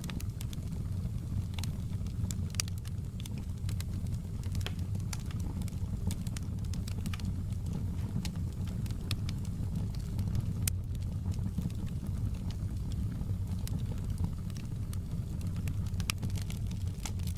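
Wood fire crackling: a steady low rumble of burning with irregular sharp pops and crackles scattered throughout.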